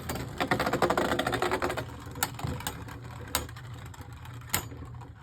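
Beyblade spinning tops (Gaianin and Luinor) battling in a plastic stadium. A dense, fast rattle of clicks for about the first two seconds is followed by a few separate sharp clacks as the tops knock together and against the stadium wall.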